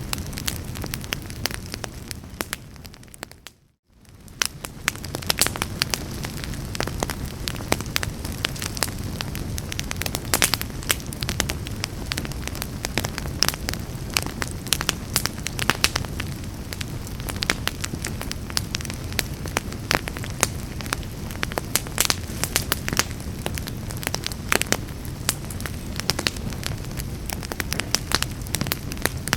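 Wood fire in a fireplace crackling and popping, with many sharp snaps over a low rumble. About three and a half seconds in, the sound fades out to a moment of silence and fades back up, as at a loop seam.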